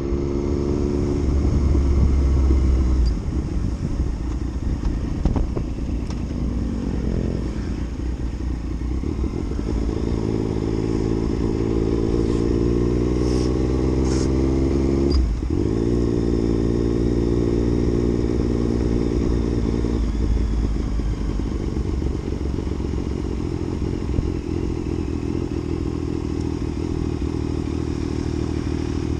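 Yamaha MT-09's three-cylinder engine under way on the road. The pitch climbs slowly under acceleration, there is a quick gear change about halfway through, and then the engine holds a steady speed while cruising.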